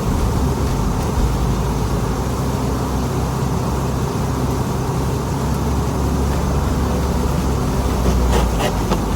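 Semi truck's diesel engine running steadily with road noise, heard from inside the cab while driving. A few brief clicks come near the end.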